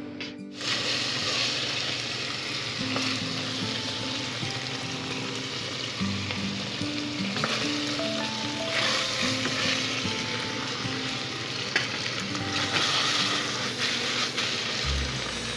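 Cubed pork sizzling as it sautés in hot oil in a pot, starting abruptly about half a second in, with background music underneath.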